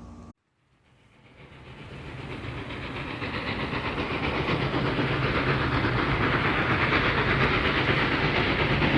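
Train running on rails, a steady rumble with hiss and rail clatter that rises from silence and grows louder over the first several seconds, then holds steady.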